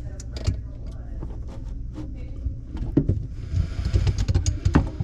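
Irregular clicks and knocks of hands and tools on plastic fittings and hoses under a kitchen sink, over a steady low hum. A hissing rustle joins them for the last second and a half.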